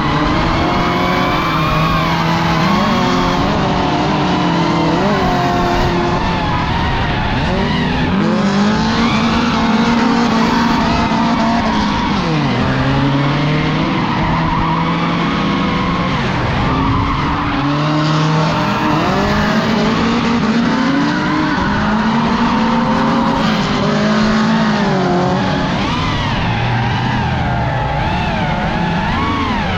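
Drift cars' engines revving hard, their pitch repeatedly climbing, dropping and stepping as the throttle is worked, over continuous tyre skid noise.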